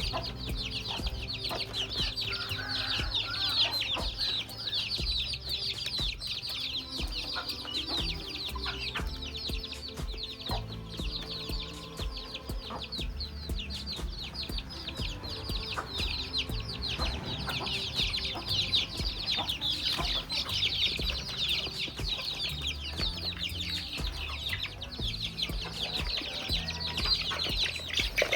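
Chickens clucking over a dense, continuous chorus of rapid high-pitched chirping.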